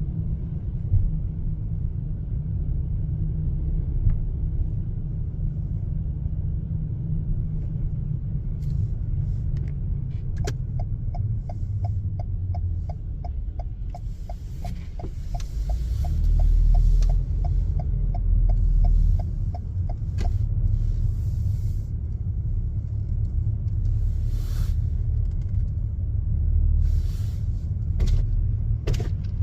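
A car's steady low road rumble while driving. Midway, a turn signal ticks evenly, about two to three times a second, for about ten seconds. A few brief knocks are heard near the end.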